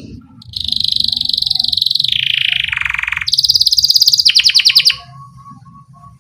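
Domestic canary singing rolling trills: a fast even trill, then a trill that steps down in pitch, then a higher rapid trill that slows into separate notes near the end. A few faint soft notes follow.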